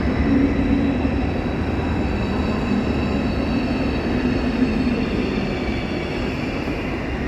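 A train moving in the station: a steady rumble with faint high whining tones that drift slowly in pitch.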